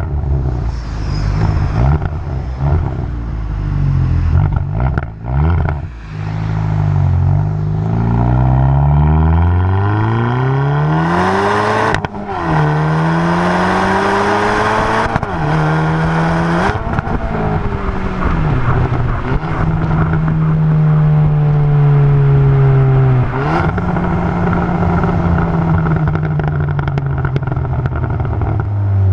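Muffler-deleted exhaust of a 2020 Hyundai N Line car, heard from outside, running loud as the engine speed climbs, holds high and drops back several times. It is loudest and most rasping during a long high-rev stretch near the middle.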